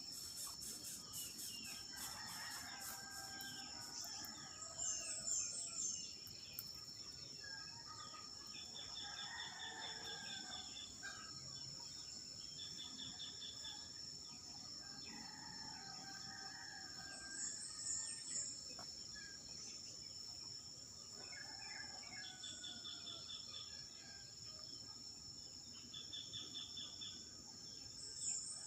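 Birds calling again and again every few seconds over a steady, high insect drone, with short rapid trills now and then.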